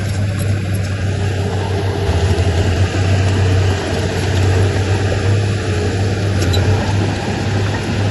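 Heavy diesel engine of earthmoving machinery running steadily with a deep drone, swelling and easing slightly under changing load.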